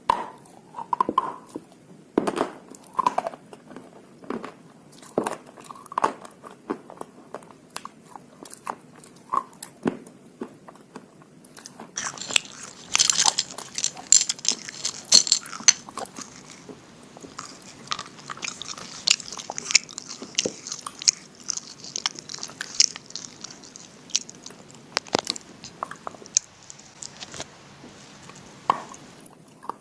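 A person biting and chewing slate pencils dipped in slate-pencil paste, with irregular sharp crunches. About twelve seconds in, the crunching turns into a denser, gritty crackle.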